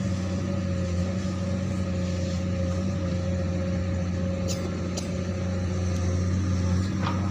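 Komatsu PC200 excavator's diesel engine running steadily with a constant low hum and a thin whine above it, with two short clicks about halfway through.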